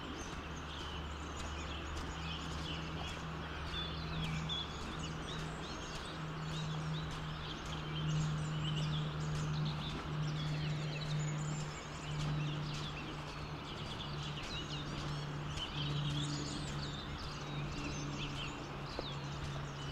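Many small birds chirping and calling on and off throughout, over a steady low hum and an even outdoor background hiss.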